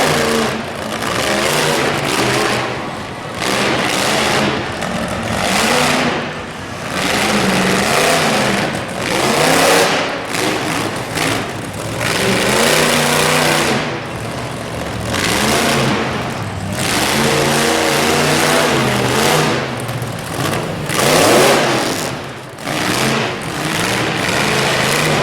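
Monster truck engine revving hard again and again, the pitch climbing and falling with each burst of throttle.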